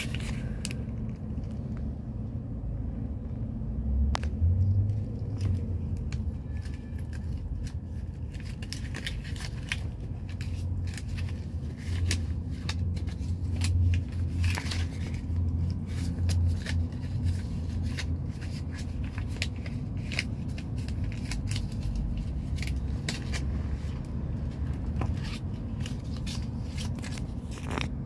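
Taxi cabin interior with the car standing still: a steady low rumble from the idling engine, with scattered small clicks and scrapes over it.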